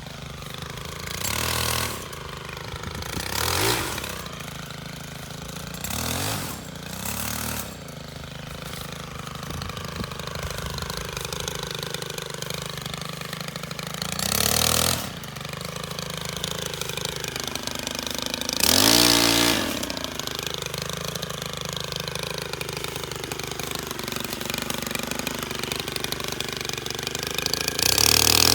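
STIHL KM 131R gas power head idling steadily, its throttle opened in about seven short bursts, each a brief rise in pitch and loudness. The loudest bursts come about halfway through and near the end.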